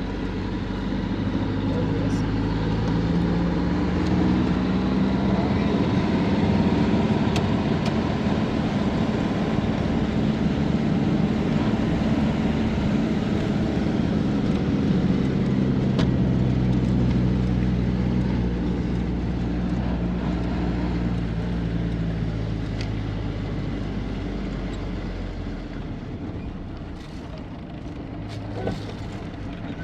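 Truck engine running under way, its low drone stepping in pitch a few times as the engine speed changes. It grows quieter over the last few seconds.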